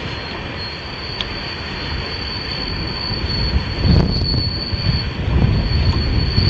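Empty railroad tank cars rolling past, the wheels giving a steady high-pitched flange squeal over a low rumble. Wind buffets the microphone, louder in the second half.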